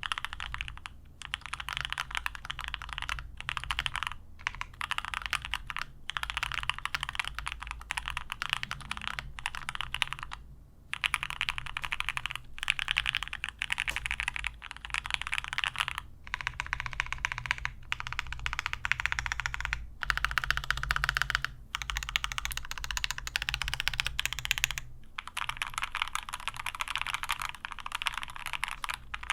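Fast, continuous typing on a GOK 7V custom mechanical keyboard with lubed H1 switches, a polycarbonate plate and EPBT PBT keycaps, tape-modded under the PCB and with no case foam. The keystrokes come in a dense stream broken by a few short pauses.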